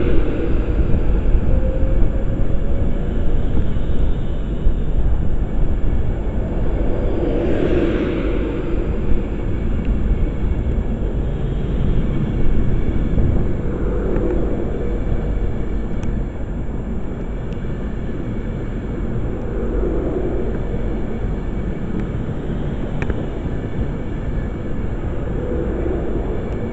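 Class 390 Pendolino electric train pulling out of the station, a steady rumble of motors and wheels on the rails that slowly fades as it moves away, with a faint rising whine early on.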